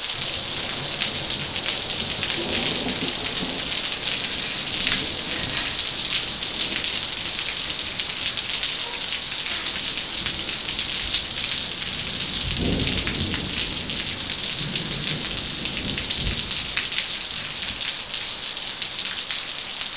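Rain falls in a steady hiss during a thunderstorm, with low rumbles of thunder about two seconds in, around twelve seconds in and again around fifteen seconds in.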